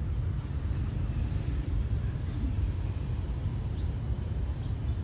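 Low, steady rumble of a passenger train's coaches running away along the track.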